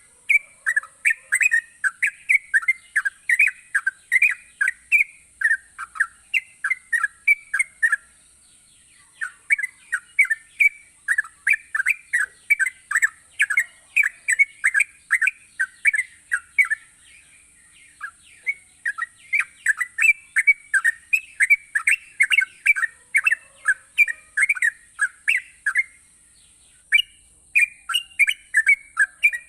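Yellow-vented bulbul (trucukan) singing energetically: long runs of quick, bubbling chirps, broken by short pauses about every eight or nine seconds.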